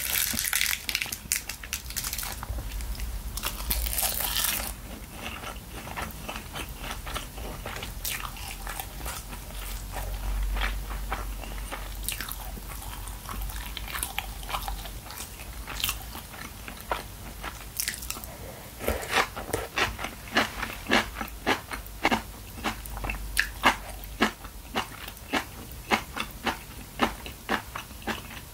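Close-miked eating sounds of someone chewing braised chicken and aged kimchi: wet, crunchy chewing with scattered sharp clicks. In the second half it settles into a regular chewing rhythm of about two bites a second.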